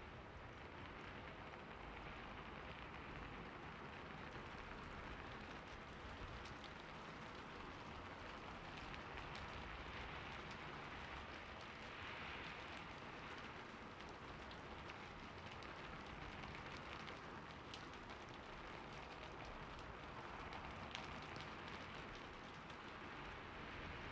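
Rain falling steadily on a roof, with individual drops ticking sharply here and there.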